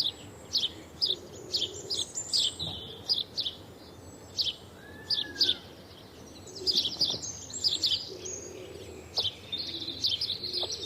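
Small birds chirping: a run of short, high chirps repeating every second or so, thicker in a couple of busy stretches, with one lower, arching whistle about halfway through.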